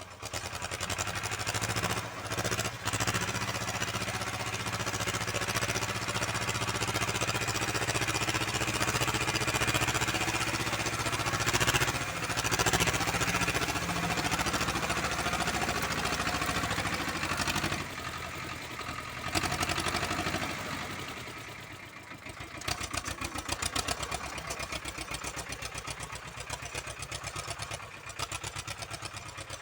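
Uralets walk-behind tractor's engine running under load as its rotary tiller churns the soil. A little over two-thirds of the way in it eases off to a lighter, regularly pulsing running.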